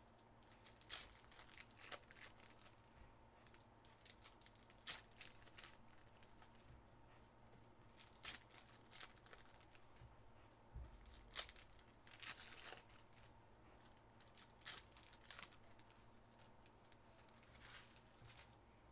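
Faint crinkling and tearing of foil baseball card pack wrappers being ripped open, with irregular short ticks and flicks of cards being handled.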